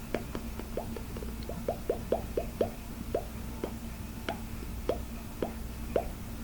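Fingers tapping on a hard hollow plastic object, a string of short hollow plops at an uneven pace. The taps come in quick runs at first and grow sparser towards the end, over a faint steady hum.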